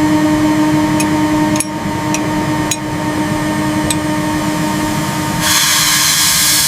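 Electric screw gun running with a steady whine while screws are driven, with a few sharp clicks from the work. A louder hiss comes in about five seconds in.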